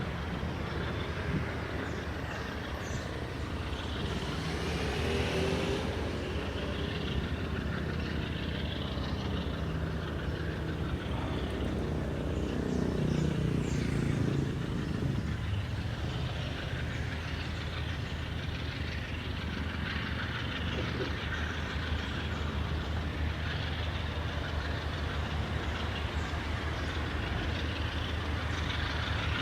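Diesel-hauled freight train running on the track: a steady low diesel engine hum under wheel and rail noise, with brief rising and falling tones about five seconds in and again around twelve to fifteen seconds.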